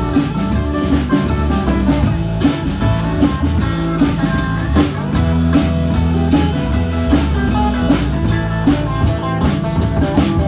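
A live band playing an instrumental passage: guitar over a drum kit, with steady drum strokes and held low notes throughout.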